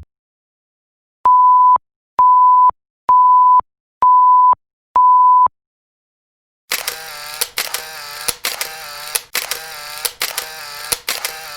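Five electronic beeps of a single steady pitch, each about half a second long and spaced about a second apart. After a pause, a different noisy, mechanical-sounding effect starts near the end, with a sharp click a little more often than once a second.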